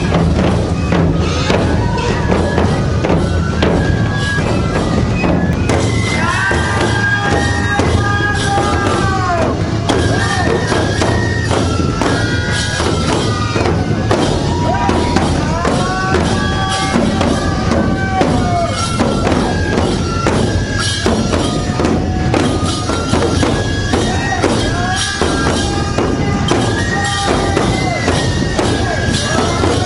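Neputa festival hayashi: large taiko drums beating steadily under a high bamboo-flute melody in repeated phrases, with small hand cymbals clashing.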